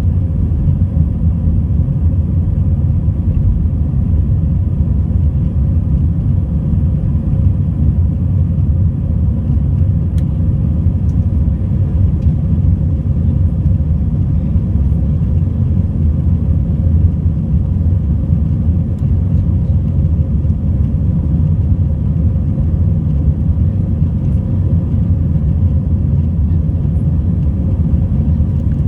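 Airbus A319-100 cabin noise: the engines and airflow make a steady low rumble, with a faint steady hum above it.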